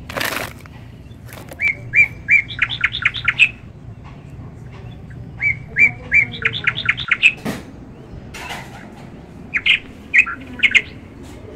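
A songbird singing. It gives two similar phrases, each a few even notes followed by a quicker run of higher notes, then a shorter burst near the end. A brief rustling noise comes at the start and another about halfway through.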